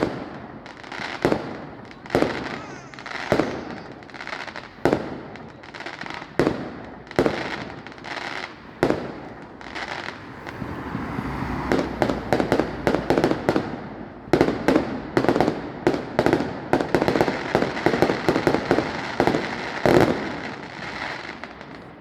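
Fireworks display. Aerial shells burst in single bangs about once a second, then from about halfway a dense, rapid string of bangs and crackle builds, with one loud bang near the end.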